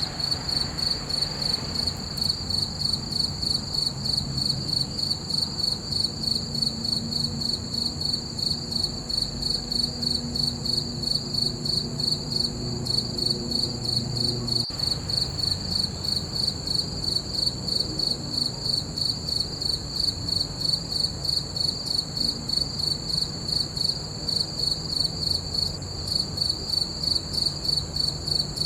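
Crickets chirping in a steady, even rhythm, about two to three high-pitched chirps a second.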